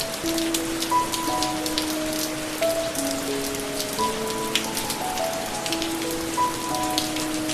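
Steady rain falling, with many individual drops ticking, under a slow, soft instrumental melody of long held notes.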